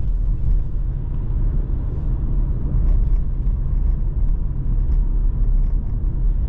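Steady low rumble of a 2020 Mercedes-AMG C43 being driven: its 3.0-litre twin-turbo V6 and road noise, with no revving or gear changes.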